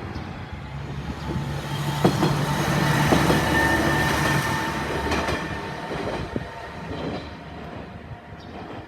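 A diesel railcar passing over a level crossing. The running noise swells to a peak about three seconds in and then fades, with a few sharp wheel clacks over the rail joints.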